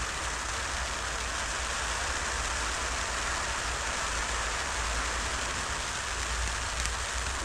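Firework fountain spraying sparks with a steady hiss, with a few faint crackles near the end.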